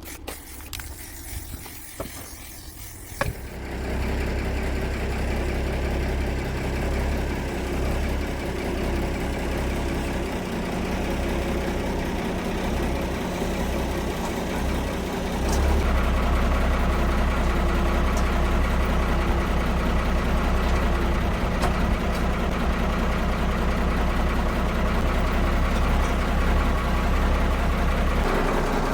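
An engine starts about three seconds in and settles into a steady run. About halfway through it steps up to a louder, faster steady speed.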